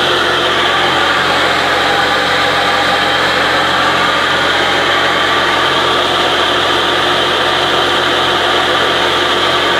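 Tractor engine running steadily, driving a vertical turbine pump, under a loud, even rushing noise.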